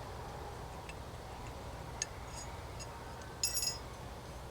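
Faint scattered ticks of small metal parts and tools being handled, with a brief ringing metallic clink about three and a half seconds in.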